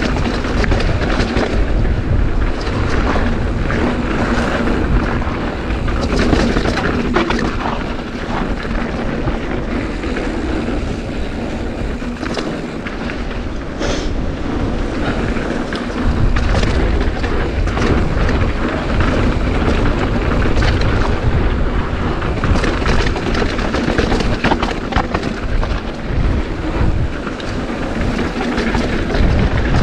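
Strong wind buffeting the action-camera microphone in heavy, gusting low rumbles, over the rattle and clatter of a mountain bike riding a rough dirt trail.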